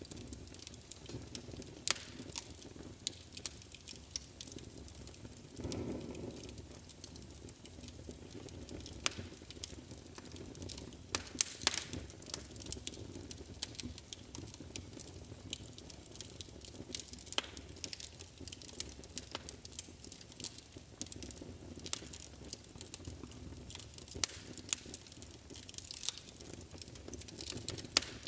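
Wood fire in a fireplace crackling, with irregular sharp pops and snaps over a steady low rumble of the flames. A brief swell of low sound comes about six seconds in.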